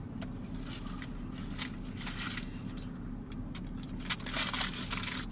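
Crackly rustling and crunching as a Sonic corn dog and its small paper wrapper are handled and eaten, in irregular bursts, over a steady low hum.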